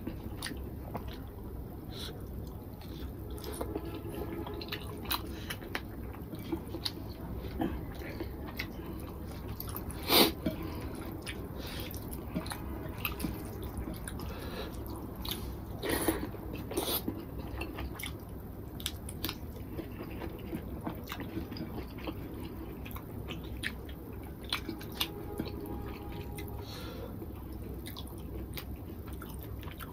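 Close-miked eating: a man chewing rice and boal fish curry with wet mouth clicks and smacks, while his fingers work the rice on the plate. A sharp click about ten seconds in and another around sixteen seconds are the loudest.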